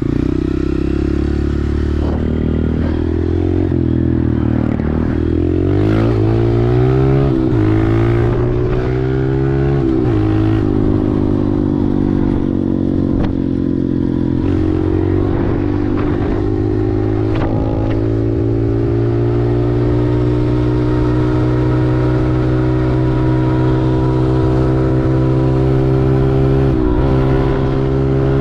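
Honda CRF125F's single-cylinder four-stroke engine under way on the road. Its pitch climbs and drops several times in the first ten seconds as it accelerates through the gears, then holds steady at cruising speed.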